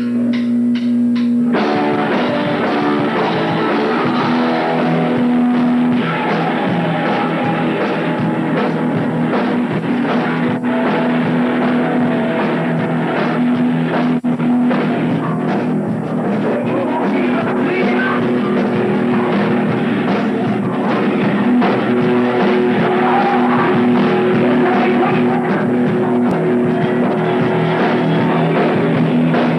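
Heavy metal band rehearsing live: distorted electric guitars, bass and drum kit playing loud, with the full band crashing in about a second and a half in over a sparser held-note opening.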